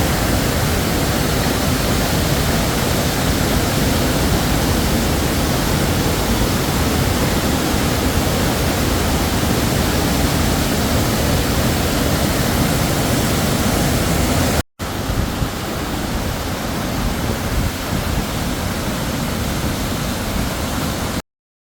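Bousra Waterfall's falling water: a loud, steady rush. It breaks off for an instant about fifteen seconds in and comes back a little quieter, then cuts off shortly before the end.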